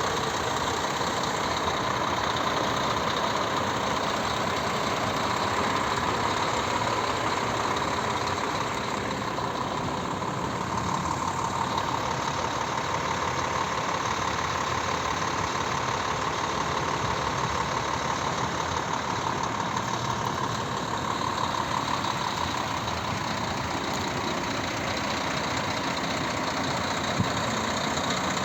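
Scania R 440 truck's six-cylinder diesel engine idling steadily, with one brief click near the end.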